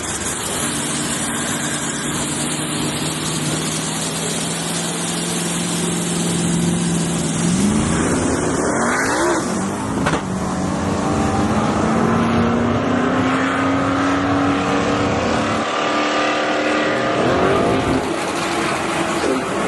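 Modified pickup truck engine running hard in a drag-strip burnout, with its tires spinning: held at steady high revs for several seconds, revved sharply up and down about halfway through, then climbing steadily in pitch, dropping, and climbing again near the end.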